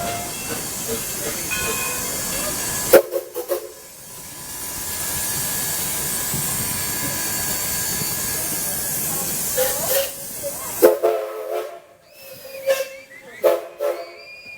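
Steam hissing steadily from a steam locomotive. A few sharp clacks and short tones break in about three seconds in and again near the end.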